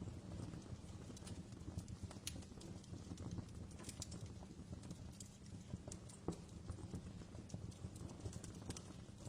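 Wood fire crackling: irregular sharp snaps and pops, several a second, over a low steady rumble.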